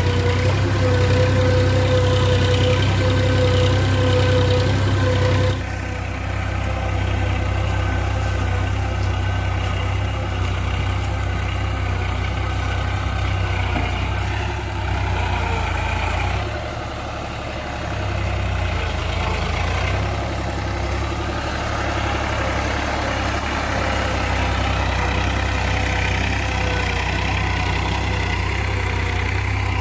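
Massey Ferguson 7250 DI tractor's three-cylinder diesel engine running steadily. It drops a little in level about five seconds in and dips briefly past the middle.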